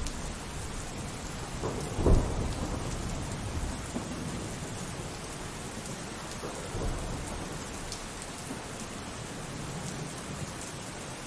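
Steady rain falling during a thunderstorm, with a loud thunderclap about two seconds in and a softer rumble of thunder a little past the middle.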